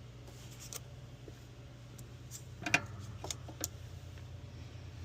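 A few irregular metallic clicks and clinks of hand tools on bolts as the hybrid battery pack's mounting bolts are worked loose, the loudest about halfway through. A steady low hum runs underneath.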